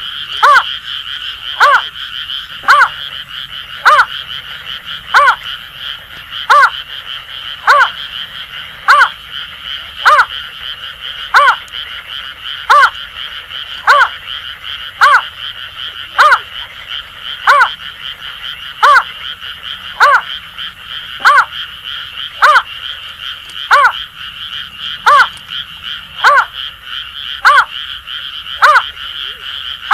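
Greater painted-snipe calling: short pitched notes repeated evenly, about one every 1.2 seconds, over a steady, continuous chorus of Asian grass frogs.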